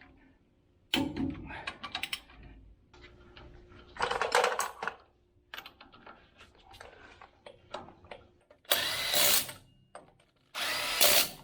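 A power tool running the Loctite-coated axle flange bolts into the hub of a full-floating rear axle, in short bursts with clicks and clanks between, then two longer steady runs with a changing motor pitch near the end.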